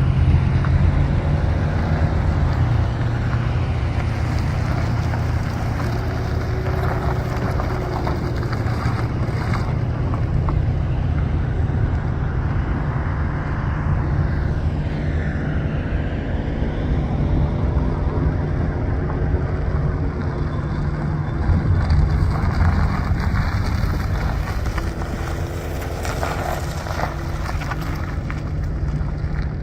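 2012 Ford F-150 pickup engine running steadily, with wind buffeting the microphone.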